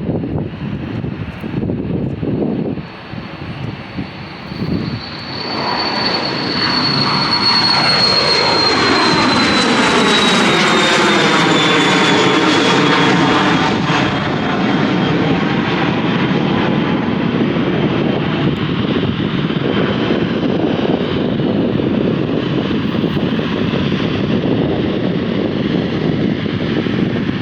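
Airliner passing close by, its engine noise building to a peak about ten seconds in, with a high whine that glides slowly down in pitch as it goes past, then a steady loud rumble that carries on.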